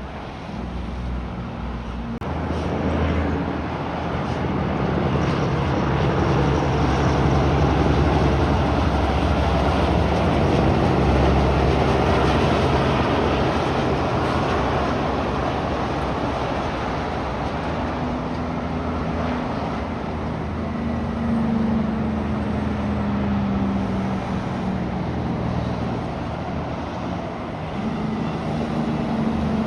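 Heavy trucks passing on the road, with diesel engine drone and tyre noise. The noise swells about two seconds in, is loudest over the middle, and an engine note carries on steadily through the second half.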